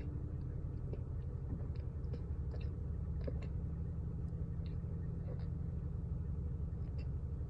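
Mouthfuls of cornstarch being chewed: scattered soft crunches and squeaky clicks, a few each second, over a steady low hum.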